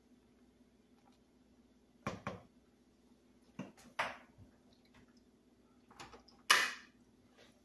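Kitchen handling sounds: a few sharp knocks and clatters of pots, lids or utensils being moved, in pairs about a second in, two seconds in and near the end, the last one loudest and ringing briefly, over a steady low hum.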